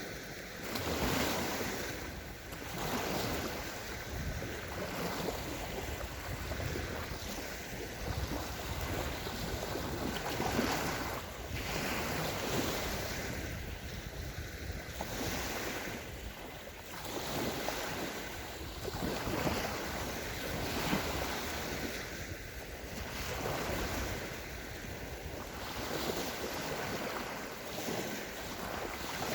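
Small sea waves breaking and washing up a sandy beach, in repeated swells every couple of seconds. Wind buffets the microphone at times.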